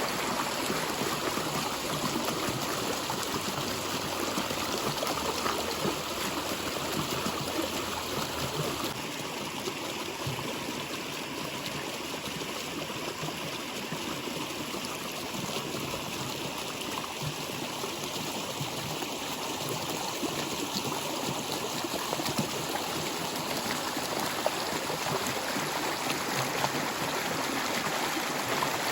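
Flowing stream water, a steady babble and trickle over rocks.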